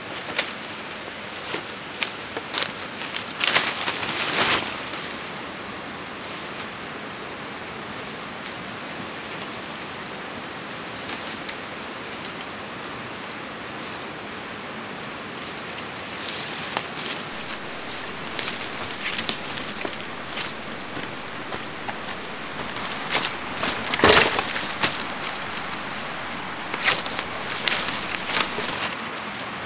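A small bird calling in quick runs of high chirps, each dropping in pitch, from a little past halfway on, over a steady rushing background. There are a few sharp clicks and knocks in the first seconds, and one louder rustling knock near the end.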